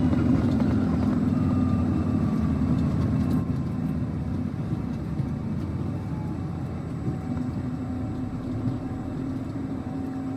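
Airbus A321neo cabin noise: the jet engines and airflow make a steady rumble, with a faint tone gliding down in pitch over the first few seconds. The level eases slightly partway through.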